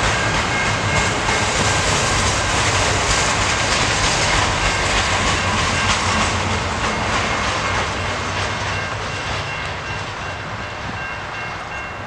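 Last cars of a double-stack intermodal freight train rolling past, with steel wheels rumbling and clacking over the rails. The rumble fades over the last few seconds as the train moves away, and faint steady high tones carry on through it.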